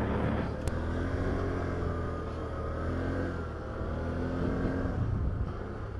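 Can-Am Outlander 850 ATV's V-twin engine running at low speed, its pitch rising and easing off a few times as the machine is manoeuvred.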